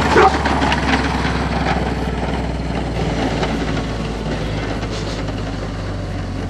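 Small dirt bike engine running steadily at low revs.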